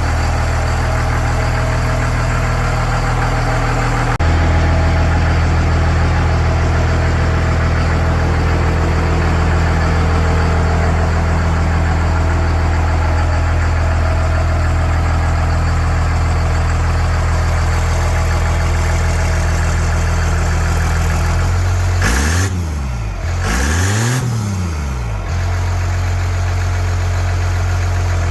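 1st-gen 12-valve Cummins inline-six diesel idling steadily through a custom-fabricated exhaust. Near the end it is revved twice in quick succession, the pitch rising and falling each time, before it settles back to idle.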